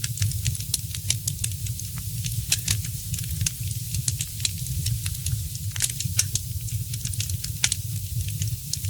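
Wood fire crackling in a fireplace: irregular sharp pops and snaps several times a second over a steady low rumble.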